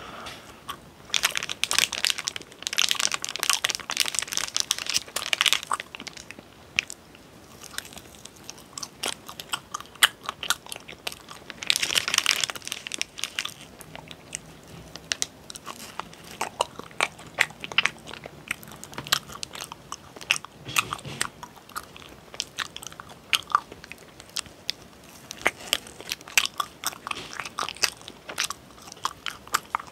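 Close-miked eating sounds of a frozen hotteok mochi: bites and chewing with dense crunchy stretches about a second in and again around twelve seconds in, and scattered sharp mouth clicks between.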